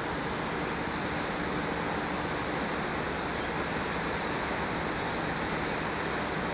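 Steady rushing noise of a passenger train running, with a faint low hum under it and no distinct events; it cuts off suddenly at the end.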